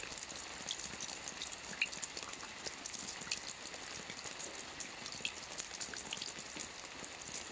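Steady rain falling, a continuous hiss with many individual drops ticking close by.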